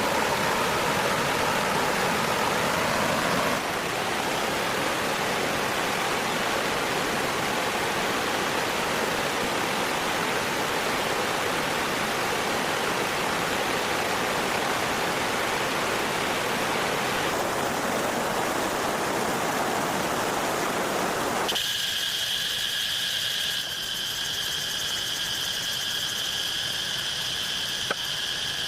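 Steady rush of flowing water. About three-quarters of the way through it cuts to a steady, high-pitched insect drone made of several held tones.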